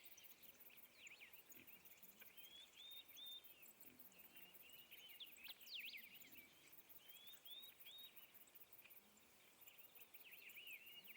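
Faint birdsong: birds chirping, with many short, quickly sweeping notes.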